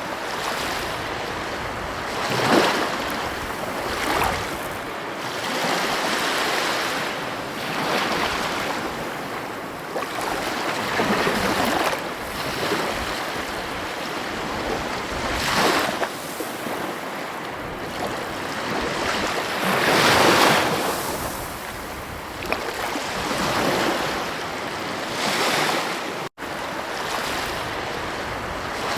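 Ocean waves breaking and washing up a shore, a steady rush of surf that swells louder every few seconds. The sound cuts out for a split second near the end.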